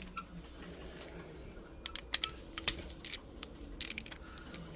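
Scattered light clicks and taps, with a short scrape near the end: small metal tools and the cut gold ring being handled on a jeweler's bench.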